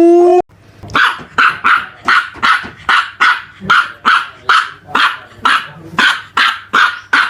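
An animal calling: a held, pitched call cuts off about half a second in, then after a brief pause comes a steady run of short, sharp calls, about two and a half a second.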